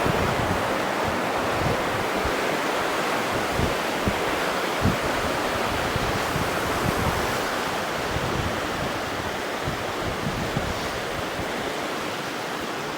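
River water rushing steadily, with wind buffeting the microphone in occasional low thumps.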